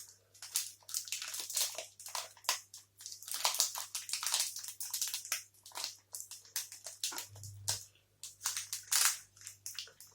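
Close-miked, irregular crackling and crunching from a protein bar and its wrapper being handled, a sharp crackle every fraction of a second.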